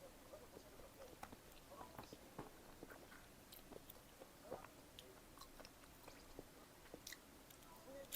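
Faint chewing of pizza, soft mouth clicks scattered irregularly, with one sharper click at the very end.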